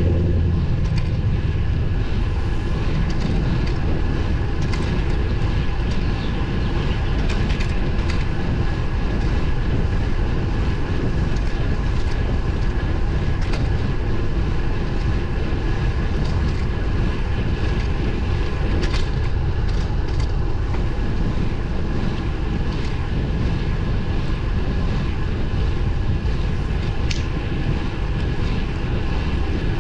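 Steady wind rush on the microphone and the hum of 23 mm road tyres on pavement while riding a road bike, heaviest in the low end. A faint steady high tone runs through it, with a few light ticks.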